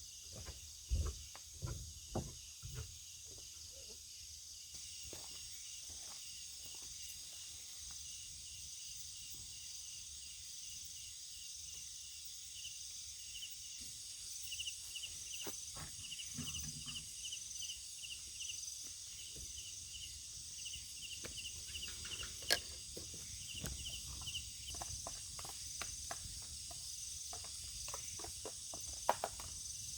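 Insects chirping steadily, with a rapid pulsed trill that comes and goes. Scattered light clicks and knocks run through it, the sharpest about two-thirds of the way in and near the end.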